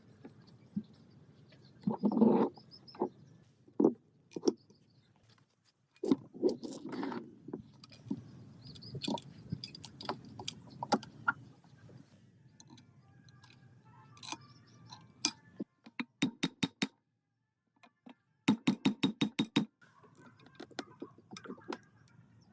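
Hand tools and metal parts being handled: scattered clicks, clinks and scrapes, with a quick run of about ten clicks about three quarters of the way through.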